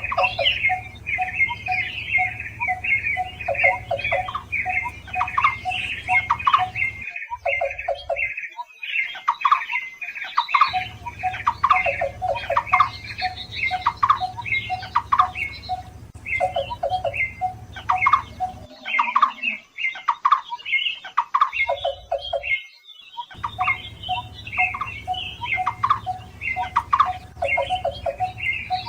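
Barbets calling: several series of fast, evenly repeated notes at different pitches layered over one another, with a low hum beneath. The calls break off briefly twice.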